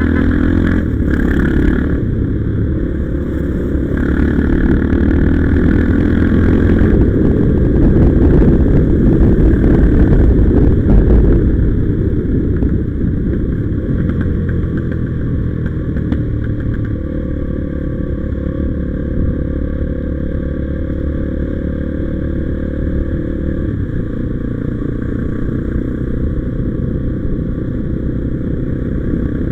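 Motorcycle engine running while riding, with road noise. It grows louder for several seconds, then eases back to a steadier cruise about twelve seconds in.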